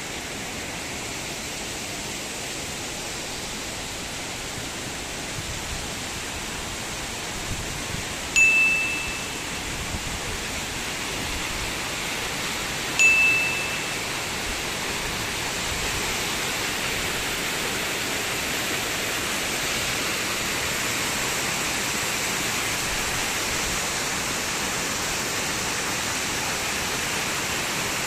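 Steady rushing noise of running water, with two short, bright ringing chime tones about four and a half seconds apart, each starting with a sharp strike.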